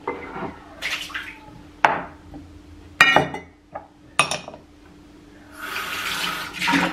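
Dishes and glassware clinking as they are handled and set down, four or five sharp knocks, then water running briefly near the end.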